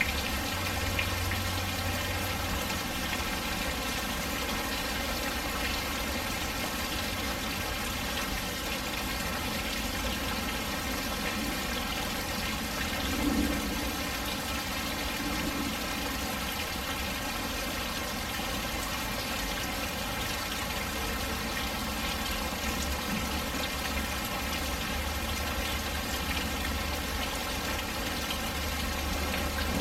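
Steady thunderstorm rain falling and splashing, with a low rumble near the start and again near the end.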